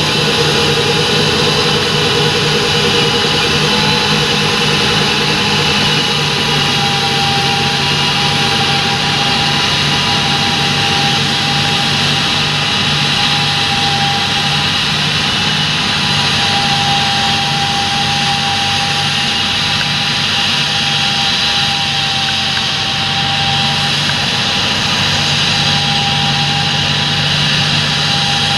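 Large John Deere tractor's engine running steadily, with a steady high whine over the engine hum.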